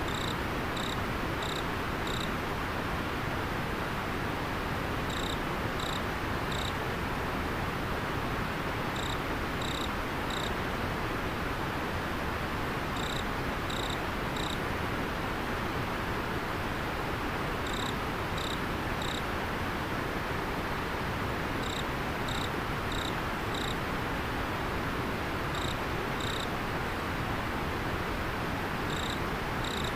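River water flowing steadily, with an insect chirping over it in short runs of three or four high chirps about every four seconds.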